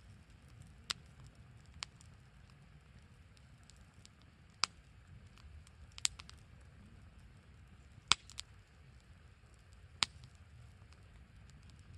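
Small wood fire burning, with sharp crackling pops from the firewood every second or two, seven in all, over a low steady rumble.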